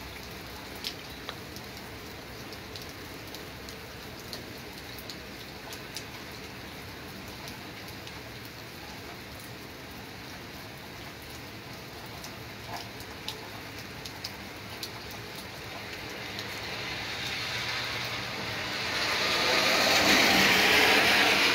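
Steady rain falling on a wet street and pavement, with scattered close drips. A louder rushing sound builds over the last few seconds and is loudest near the end.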